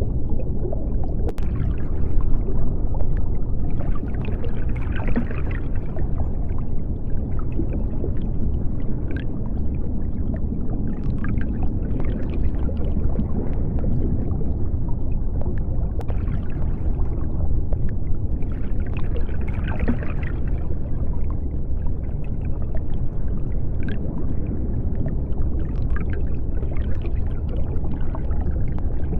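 Underwater ocean ambience: a steady deep rumble, with a soft swell of hiss about every seven seconds and scattered small bubbling ticks.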